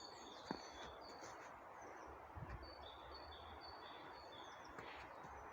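A small songbird faintly singing a short run of high notes that alternate between two pitches, over faint steady background noise.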